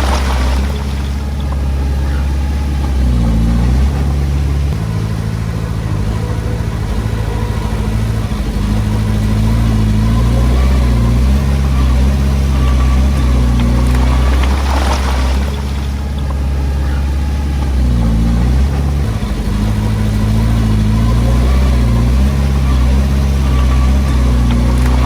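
Komatsu D20P bulldozer's diesel engine running under load while pushing soil. The engine speed dips and picks back up a few times, with a brief swell of noise about midway.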